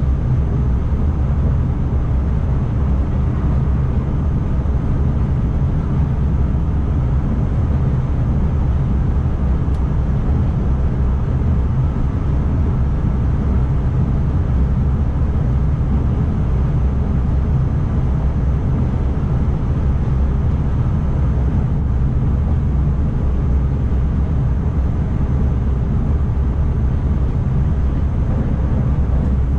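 Steady low rumble of an ICMm electric multiple unit running along the track, heard from inside the driver's cab.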